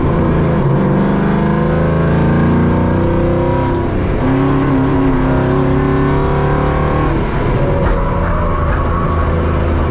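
Żuk's V8 engine heard from inside the cab under hard driving, its pitch climbing for the first few seconds, dropping about four seconds in and again just after seven seconds, then running steadily at high revs.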